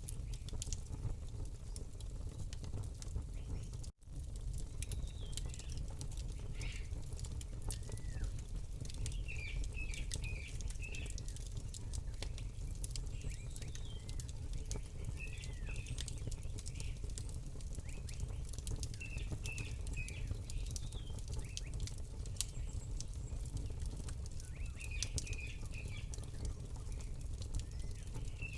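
Campfire crackling with many sharp pops over a low steady rumble, with birds chirping in short bursts several times.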